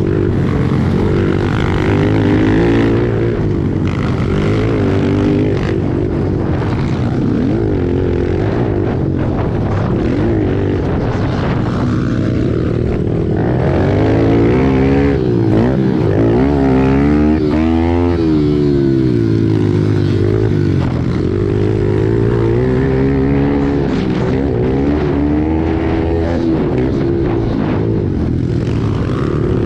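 A pack of pit bikes racing, several small motorcycle engines overlapping as they rev up and down.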